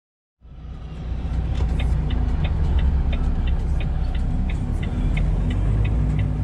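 Truck engine running, heard inside the cab as a steady low rumble, with a regular sharp ticking about three times a second over it.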